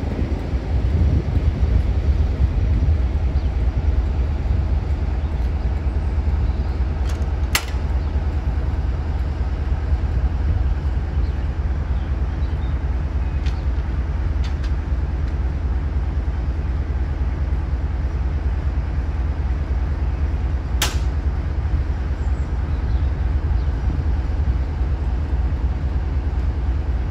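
Train running steadily, a low, even rumble with a steady hum, broken by a few sharp clicks, two of them louder.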